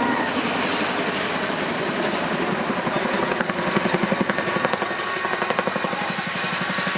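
RAF Chinook helicopter's tandem twin rotors beating in a fast, steady chop during a low display pass.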